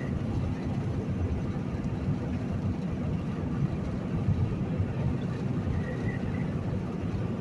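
Steady low rumble of a semi-truck's engine and road noise, heard from inside the cab while driving at speed.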